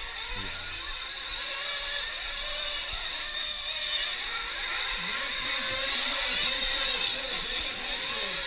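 Several 1/8-scale nitro RC truck engines whining at high revs on track, the pitch rising and falling as they accelerate and brake.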